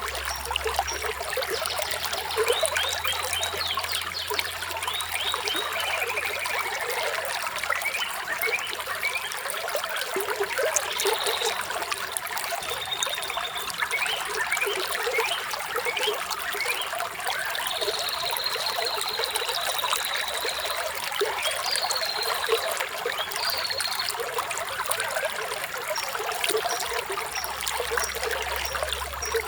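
Water trickling and splashing steadily in a small stream, with birds chirping over it: scattered short calls and one longer trilled call about two-thirds of the way in.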